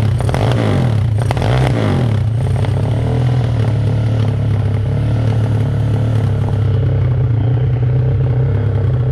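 Kawasaki KLX single-cylinder dirt bike with an aftermarket Herex exhaust, blipped up and down a few times in the first two seconds, then running steadily at idle.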